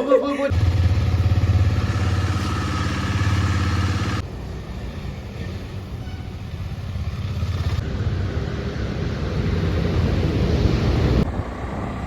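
Motorcycle engine running, heard in several short clips that change abruptly every three to four seconds.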